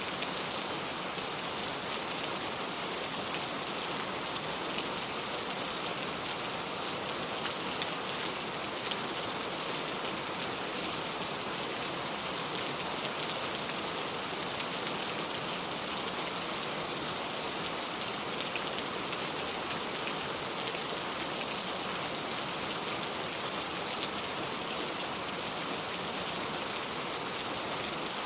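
Heavy rain pouring steadily, a dense even hiss with scattered individual drop ticks.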